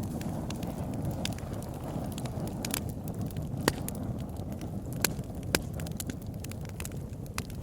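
Campfire burning: a steady low rumble of flames with irregular sharp crackles and pops from the wood, a few louder pops scattered through.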